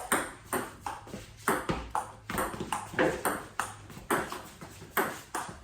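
Table tennis rally: the celluloid ball alternately cracks off paddles and bounces on the table, a quick run of sharp clicks roughly two to four a second with no break.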